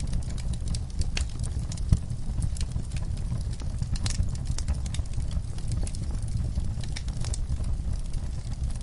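Burning logs crackling: irregular sharp pops and snaps over a steady low rumble of flames, with one louder pop about two seconds in.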